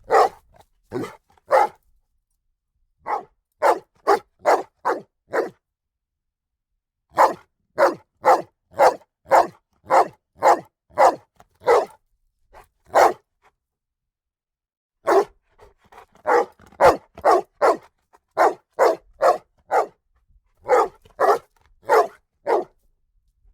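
A dog barking loudly in quick runs of sharp barks, about two a second, broken by short pauses of a second or two.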